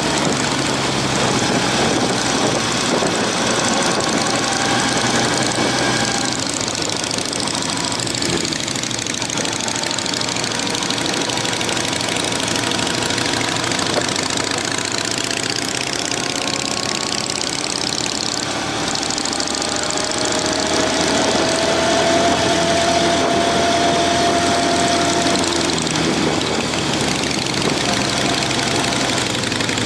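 Honda CB750's inline-four motorcycle engine running, mixed with a steady rush of wind noise; the engine pitch rises slowly about twenty seconds in.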